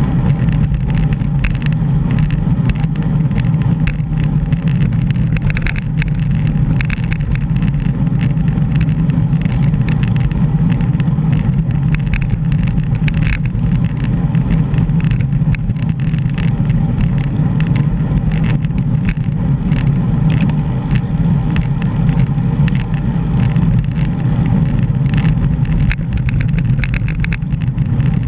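Steady low rumble of wind buffeting a GoPro's microphone while cycling, with road noise and faint ticks mixed in.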